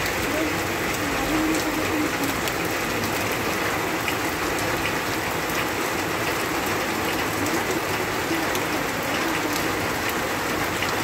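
Heavy rain pouring steadily onto a wet road and ground, with many close raindrops ticking sharply on nearby surfaces.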